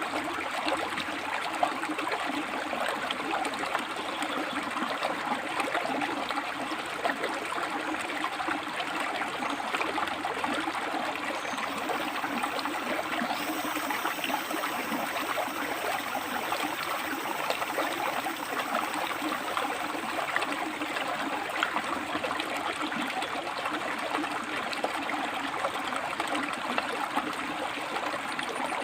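A rocky river flowing steadily, water rushing and splashing over and between stones.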